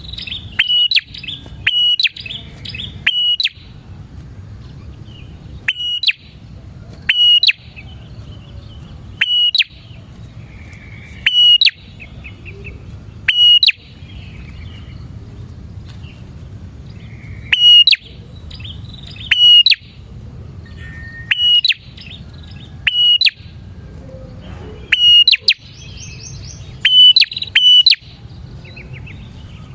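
A prinia (prenjak) calling repeatedly in a lively, persistent way: short, sharp, high calls, often in quick pairs or triplets, recurring every second or two. A steady low background rumble lies under the calls.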